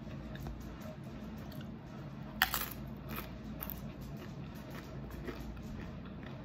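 A person eating and chewing crispy fried tortilla with soft mouth clicks. There is one sharp, loud click about two and a half seconds in, and a few weaker ones after it, over a steady low background hum.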